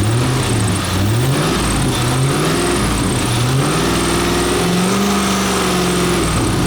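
Chevrolet LS1 5.7-litre V8 from a 2000 C5 Corvette being revved in several quick blips. It then rises to higher revs, holds there for about two seconds, and drops back toward idle near the end.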